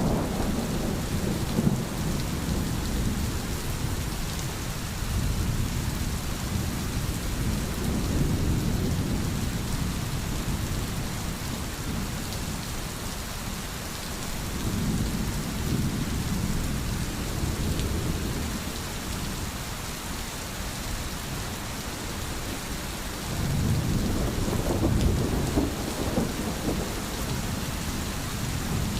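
Steady rain falling, with low rolling thunder that swells up three times.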